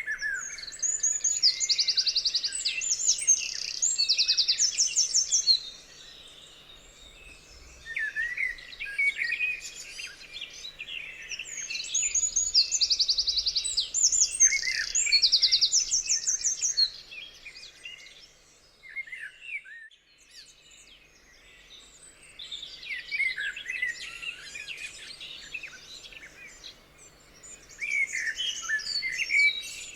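Several songbirds singing together in a chorus of chirps, whistles and trills. A loud song of rapid, buzzy trills comes twice, in the first few seconds and again about twelve seconds in; the singing is quieter and sparser after that and picks up again near the end.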